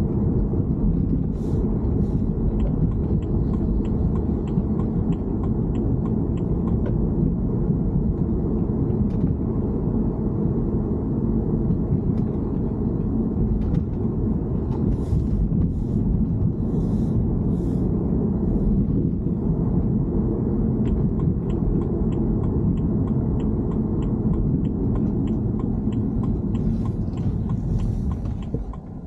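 BMW E90 car running, with a steady low rumble and faint, evenly spaced light ticks about twice a second. The rumble eases off near the end.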